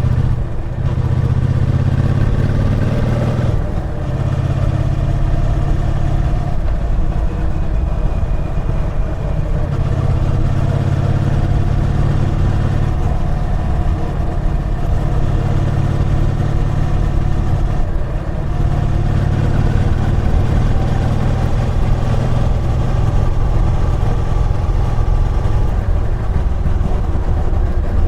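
Triumph Bonneville T120's 1200 cc parallel-twin engine running under way, its note rising in the first few seconds. The engine note dips briefly twice, about four seconds in and about eighteen seconds in.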